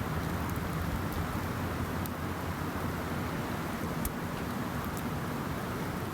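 Steady rushing noise of wind in snowy woods, with a low rumble and a few faint ticks.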